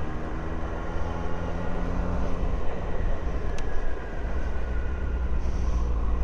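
Yamaha FZ6's inline-four engine running through its new exhaust, with a steady low drone and a pitch that climbs gradually as the bike pulls, under a noisy rush.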